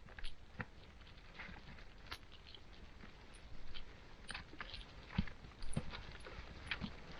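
Irregular footsteps with scattered small knocks and scuffs, from a person climbing down a steep slope; the loudest knocks come about five seconds in.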